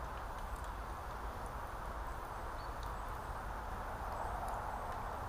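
Sausages and eggs frying in a pan over a campfire, a steady sizzle with a few faint ticks scattered through it.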